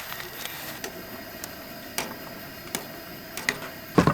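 Scattered light clicks and knocks, about one every second or so, then a louder clatter of knocks near the end, over a steady background hiss.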